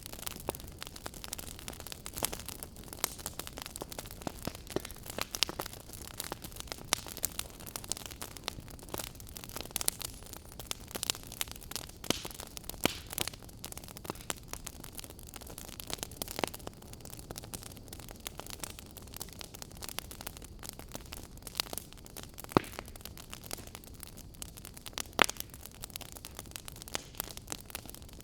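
Fire crackling: irregular sharp pops and snaps, several a second with a few louder ones, over a steady low hiss and rumble of burning.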